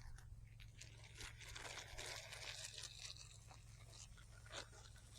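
Faint crunching and scraping, strongest a second or two in, with a few light clicks near the end.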